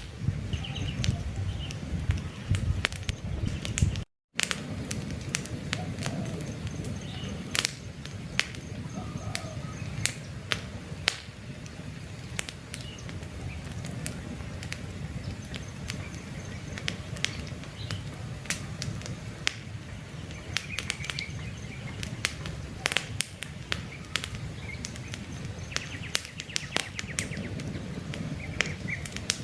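Wood campfire crackling, with frequent sharp pops and snaps over a low steady rumble of flames, and faint bird chirps now and then. The sound cuts out completely for a moment about four seconds in.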